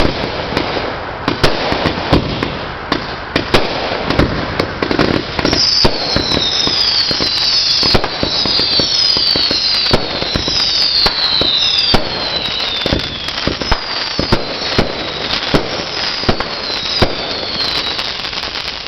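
Consumer fireworks going off on a fireworks board: continuous crackling and popping with sharp bangs. From about five seconds in, a run of whistles, one after another and overlapping, each falling in pitch, lasts until near the end.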